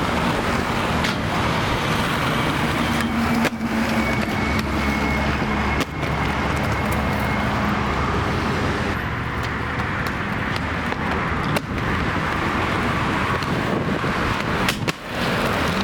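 Street traffic noise: cars running past on a city road, a steady rush of engines and tyres with a low engine hum swelling for a few seconds.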